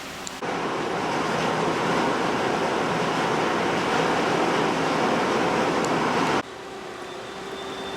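Sea water rushing alongside a moving ferry: a steady, loud rush that cuts in abruptly about half a second in and cuts off just as abruptly about six seconds later.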